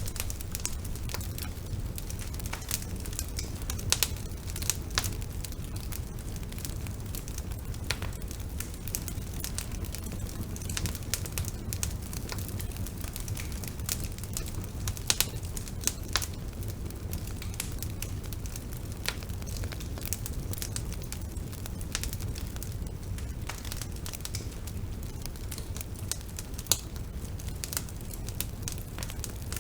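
Bonfire burning with a steady low rumble and constant irregular crackling, with an occasional louder pop.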